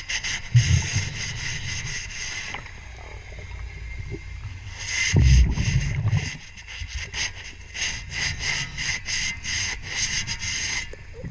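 Underwater scrubbing of a boat propeller: quick, even scraping strokes, with a pause of a couple of seconds near the middle. About five seconds in, a low rumbling burst of a diver's exhaled bubbles.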